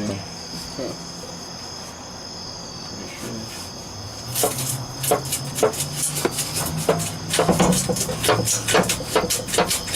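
Irregular metallic clicks and clanks of hand tools working on exhaust fasteners under a car, coming several a second from about four seconds in. Crickets chirp steadily in the background.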